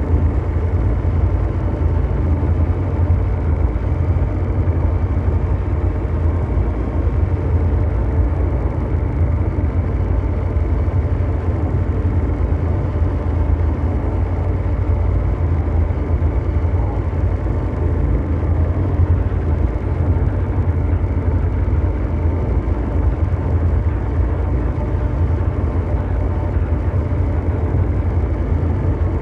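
Ambient mechanical drone of brown-noise type: a steady, deep engine-like rumble with faint steady hum tones above it, unchanging throughout.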